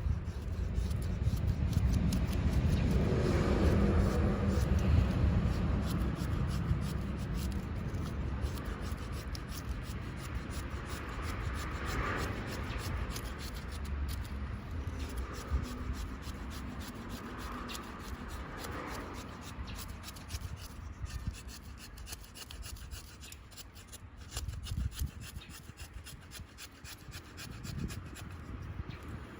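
A knife blade scraping along a wooden stick in repeated strokes, shaving thin curls to make a feather stick.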